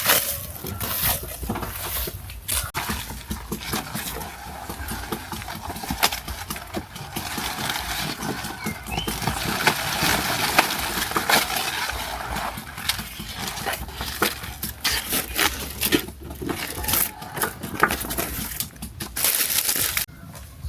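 Goats feeding: continual rustling of leaves with many small crunches and snaps as they tear and chew.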